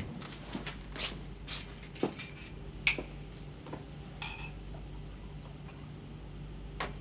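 A few light clinks and knocks of small hard objects, one ringing briefly about three seconds in and another soon after, over a steady low hum.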